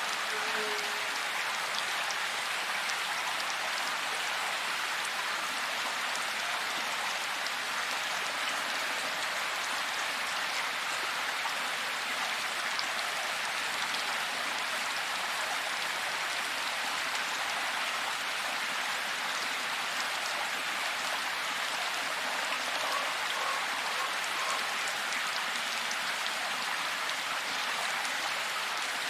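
Steady heavy rain: an even, unbroken hiss of falling water with fine scattered drop ticks.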